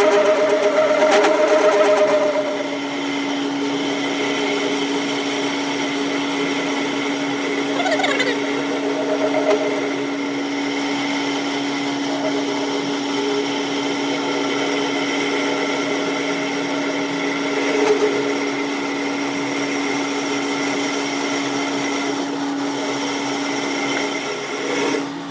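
Workshop machine motor running steadily with a constant hum. A higher-pitched tone drops away about two seconds in, and a couple of brief small noises come over the hum.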